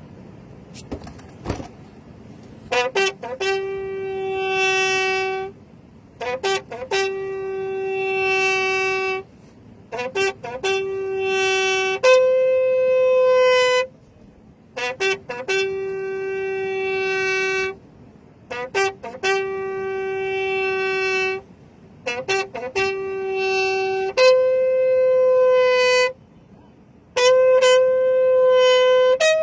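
A horn blown in repeated calls, about eight in all. Each call is a quick run of short tongued notes ending in a long held note, and the held notes alternate between two pitches a few steps apart.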